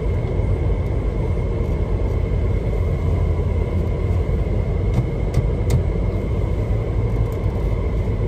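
A car's engine idling with the heater blowing, heard from inside the cabin: a steady low rumble with a faint steady high tone, and a few brief clicks about five seconds in.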